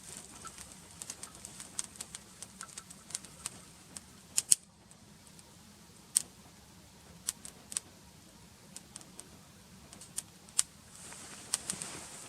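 Small wood campfire crackling: irregular sharp pops over a faint hiss, the loudest a quick pair about four and a half seconds in.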